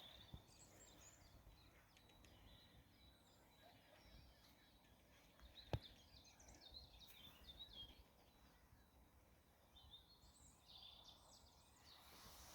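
Faint birdsong: scattered phrases of high chirping, with a single sharp click a little before six seconds in.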